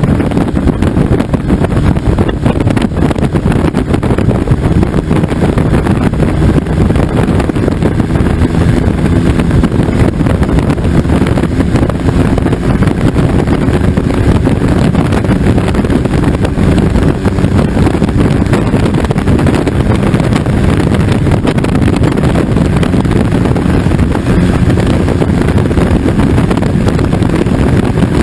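A diesel motorcycle's Smart CDI three-cylinder turbodiesel engine running steadily, with wind noise on the microphone.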